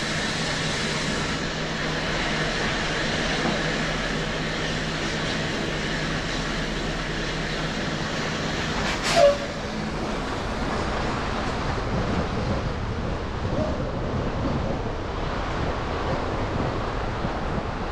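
Steady noise of a car driving through city traffic, with a single short, sharp knock about nine seconds in.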